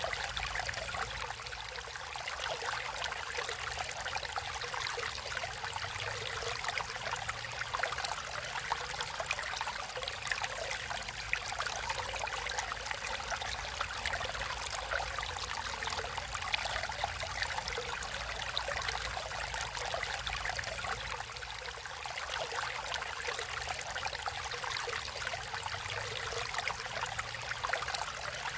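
Stream water flowing and trickling steadily, a continuous splashy rush.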